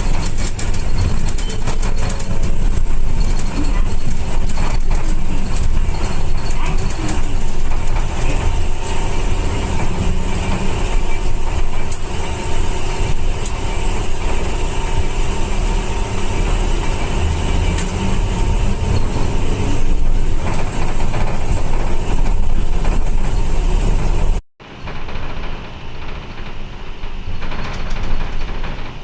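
Inside a moving city bus: steady engine rumble and road noise. About 24 seconds in the sound cuts off sharply and resumes quieter and duller.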